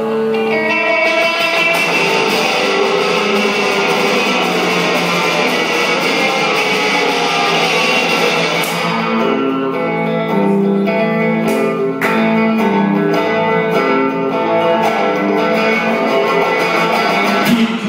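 Live rock band playing an instrumental break led by electric guitar, with no vocals. About halfway through the sound thins out and single picked guitar notes come to the fore.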